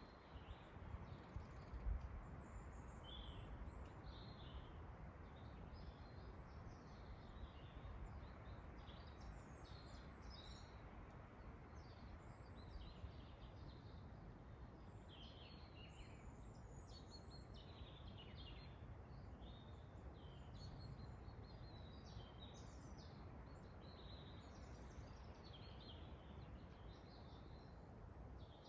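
Faint forest birdsong: several small birds chirping in short, high notes over a steady low wind rumble, with a brief low thump about two seconds in.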